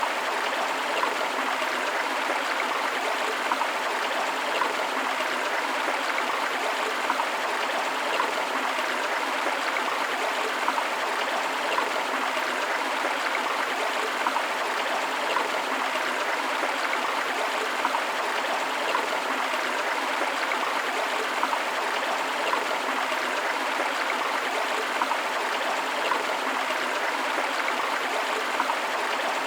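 River water flowing steadily over rocks, a continuous rushing with small gurgling flickers.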